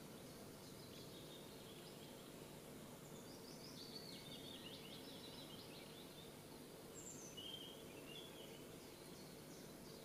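Faint songbird song over a steady low background noise: a warbling phrase about three to five seconds in, then a few short high calls around seven to eight seconds.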